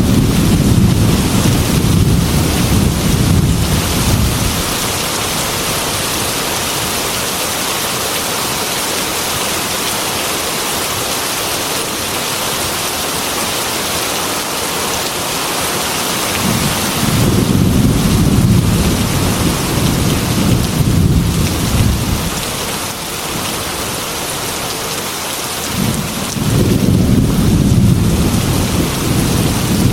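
Heavy rain on a glass window, a steady hiss, with thunder rolling through it in three long, low rumbles: one at the start, one a little past halfway and one near the end.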